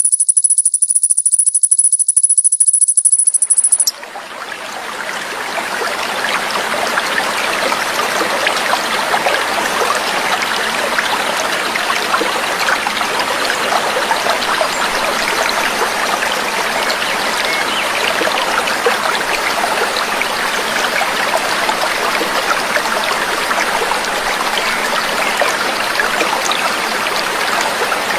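A shrill, steady high-pitched trill that cuts off about four seconds in, after which running water of a small stream fades in and babbles steadily.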